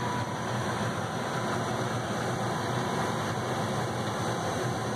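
Gas furnace running steadily, its blower and burners on: a constant low hum with a faint high tone. The furnace is heating again now that its closed gas shutoff has been opened.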